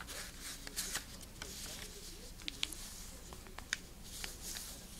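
A square sheet of origami paper being handled and folded, rustling, with scattered sharp crinkles and clicks as creases are pressed.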